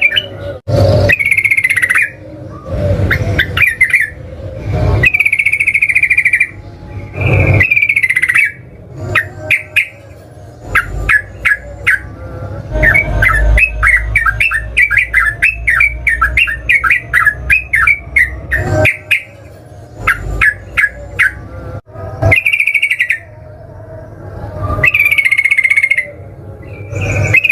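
Yellow-vented bulbul (trucukan) singing loud, bubbly phrases over and over. Through the middle the song becomes a long run of rapid chattering notes.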